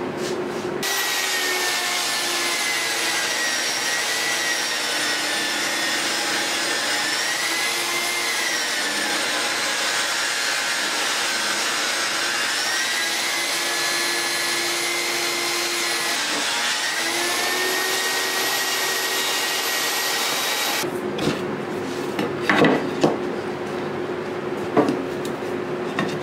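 Electric power tool cutting wood. Its high motor whine runs steadily, dips in pitch twice as it bogs under load, then stops. A few sharp knocks follow near the end.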